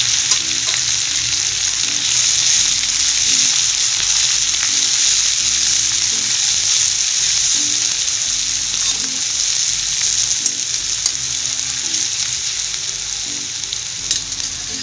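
Chopped onion frying in hot oil in a steel kadhai, a loud steady sizzle, with a metal slotted spatula scraping and clicking against the pan as it is stirred.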